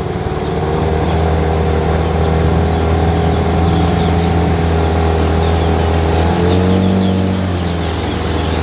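Motorboat engine running steadily under way. It grows louder over the first second, and its pitch rises briefly a little past the middle before settling back.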